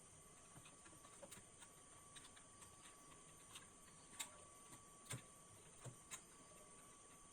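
Near silence with a few faint, sharp clicks and taps, the clearest about four, five and six seconds in, over a faint steady high whine.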